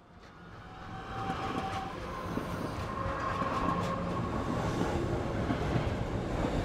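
Train running on the rails, growing louder over the first few seconds and then steady, a dense rumble and rattle with a few thin whining tones and scattered clicks over it.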